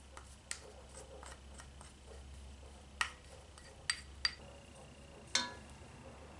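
A spoon clinking against dishes as the sauce is spooned into the stew pot: a few soft taps, then four sharp clinks in the second half, the last one ringing on briefly.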